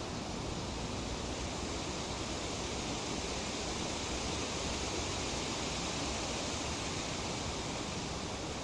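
Breeze rustling through tree leaves: a steady hiss that swells slightly in the middle.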